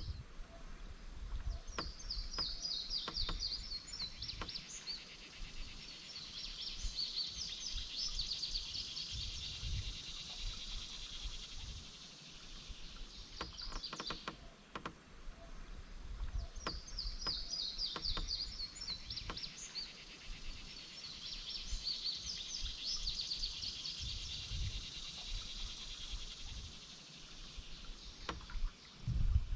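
A songbird singing in bouts of quick, repeated high notes, about four songs, over a low outdoor rumble with a few faint knocks.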